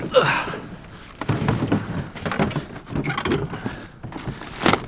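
An upended garbage can and the trash in it knocking and rustling: a series of irregular clatters and scrapes, with the sharpest knock near the end.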